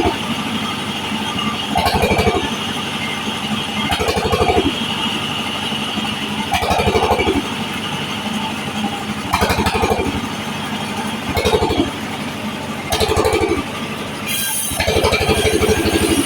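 Powered wood saw running steadily and making repeated short cuts through waru wood, about one every two seconds. Its pitch drops briefly with each cut as the saw takes the load.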